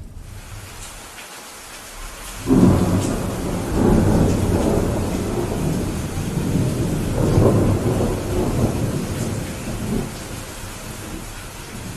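Steady rain with a long roll of thunder that breaks in suddenly a couple of seconds in, swells twice more and dies down near the end.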